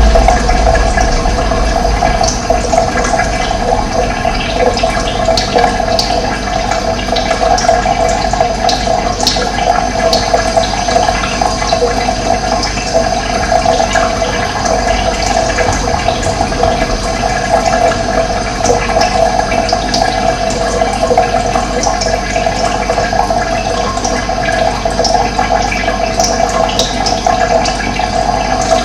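Running water flowing steadily, with birds chirping now and then.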